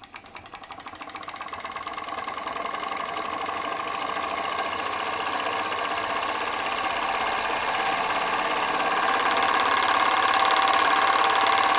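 PM Research glass Stirling engine running and speeding up as the Baker fan's load comes off, its fast mechanical rhythm growing steadily louder until it reaches about its top speed near the end.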